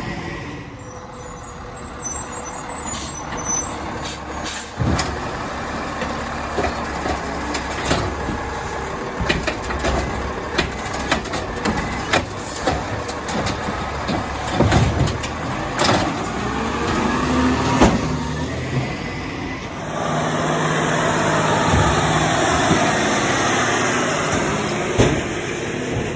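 Side-loading garbage truck (Crane Carrier cabover with an Amrep side loader) at work: a run of knocks and clatters, then from about two-thirds of the way in a steadier, louder running sound.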